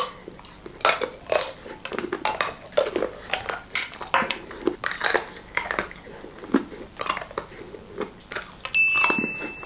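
Close-miked crunching and chewing of a KitKat's crisp chocolate-covered wafer, a run of sharp crackling bites. A brief steady high-pitched tone sounds near the end.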